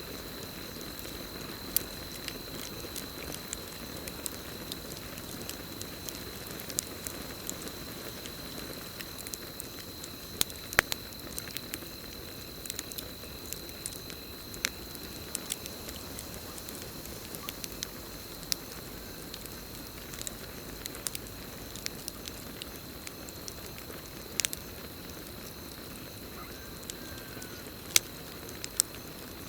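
Campfire burning, with sharp irregular crackles and pops over a low steady hiss of flames. A steady high trill of crickets runs underneath.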